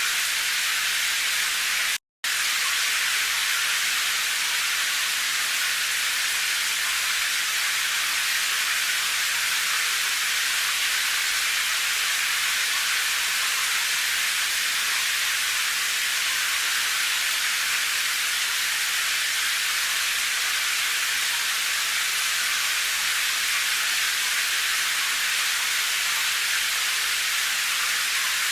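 Steady rain, an even hiss with little low rumble, broken by a split-second gap of silence about two seconds in.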